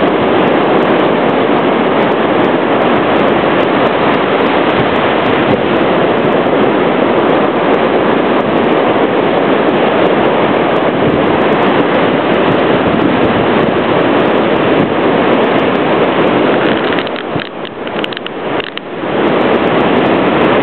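Steady, loud rushing noise that eases for a couple of seconds near the end.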